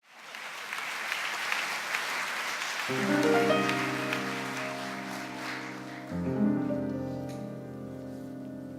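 Audience applauding, then about three seconds in, slow instrumental music begins with long held chords, changing chord about six seconds in.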